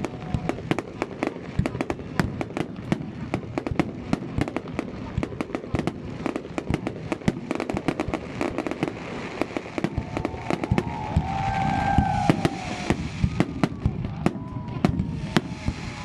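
Fireworks display: a rapid barrage of bangs and crackles, many per second, swelling louder about ten to thirteen seconds in.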